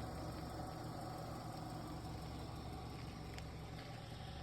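A vehicle's engine idling steadily, a constant low hum.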